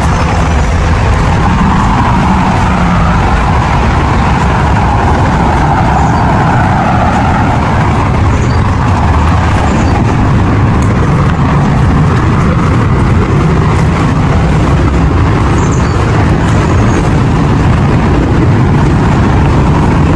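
Small waterfall running, a loud, steady rush of falling water with no break.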